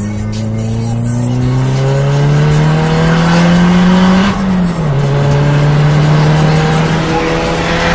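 Turbocharged Scion tC four-cylinder engine under full-throttle acceleration. Its pitch rises for about four seconds, drops sharply at a gear change, then climbs again more slowly in the next gear.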